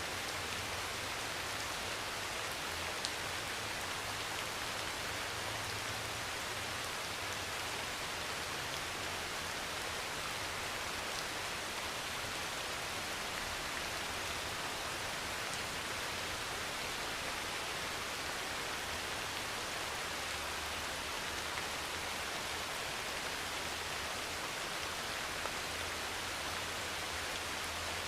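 Heavy, steady rain pouring on a metal roof, as a dense even hiss with a few sharp single drop ticks and a faint low rumble underneath.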